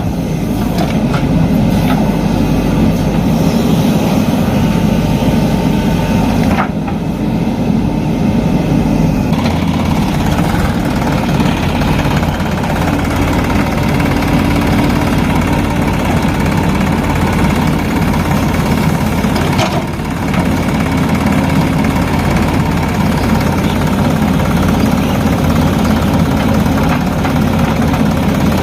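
Heavy machine's diesel engine running steadily, with brief breaks in the sound about seven and twenty seconds in.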